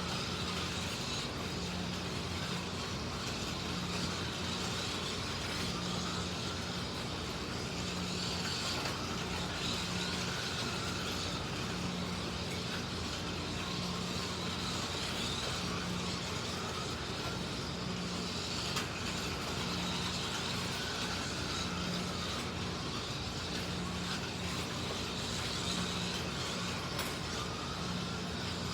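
Slot cars racing on a track: the electric motors whine and the cars rattle along the slot. The whine rises and falls every couple of seconds.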